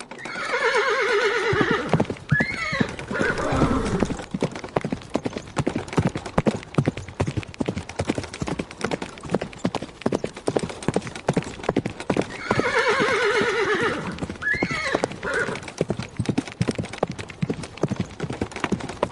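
A horse whinnies with a long wavering neigh, then rapid galloping hoofbeats run on. A second identical whinny comes about twelve seconds in, with the hoofbeats continuing.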